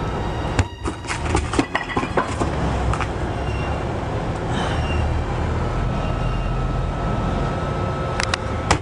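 Steady low rumble with scattered knocks and clatter about a second in, then a cluster of sharp knocks near the end as a thrown cinder block strikes the shelter.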